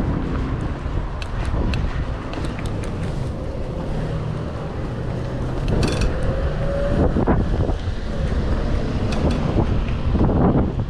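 Wind buffeting the microphone of a chest-mounted action camera while cycling, a steady low rumble with scattered light clicks. A faint, slowly rising whine comes in about halfway through and stops about two-thirds of the way in.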